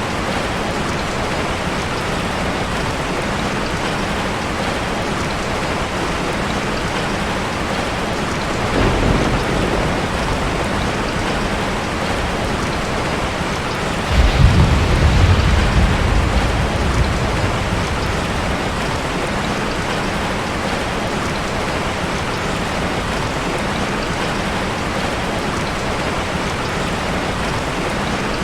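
Steady rain falling, with thunder rumbling twice: a faint low rumble about nine seconds in and a louder roll about fourteen seconds in that dies away over a few seconds.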